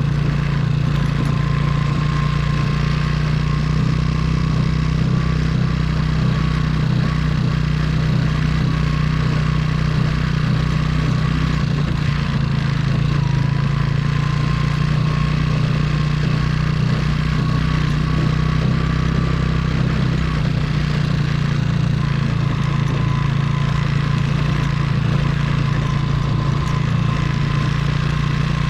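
Motorcycle engine running at a steady, unchanging pitch throughout, without revving up or down.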